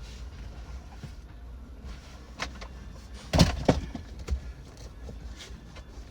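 A few knocks and thumps inside a car as seat covers are handled and pulled on, the loudest a little over three seconds in, over a low steady rumble.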